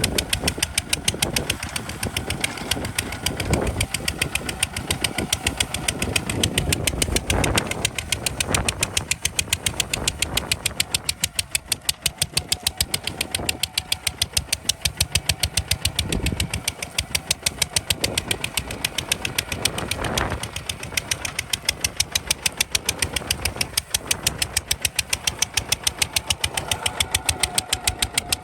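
Kubota RT 140 DI single-cylinder diesel engine running with a rapid, even exhaust beat that swells and eases a few times as the load changes.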